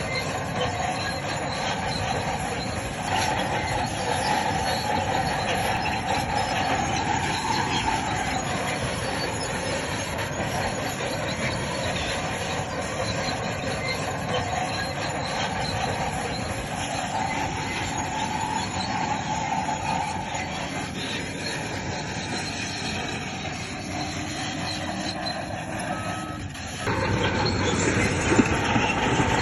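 Crawler bulldozer working, its diesel engine running under load while the steel tracks squeal and clank. Near the end the sound changes abruptly to a louder, rougher stretch.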